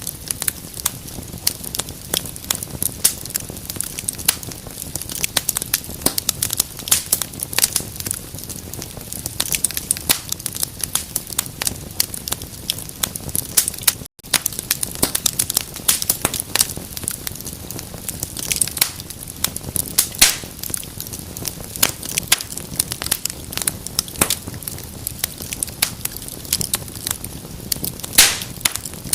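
Wood fire burning in a fireplace, crackling steadily with dense irregular snaps over a soft rushing of flame. A few louder pops stand out in the second half, and the sound cuts out for an instant around the middle.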